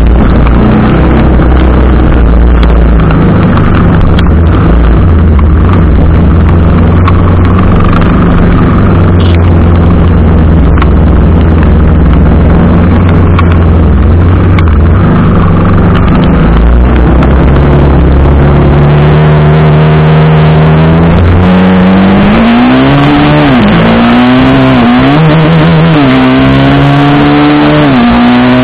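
TVS Apache RR310's single-cylinder engine running loud at a steady road speed, then, about three-quarters of the way in, its pitch climbs and drops back several times as the bike accelerates and shifts up through the gears.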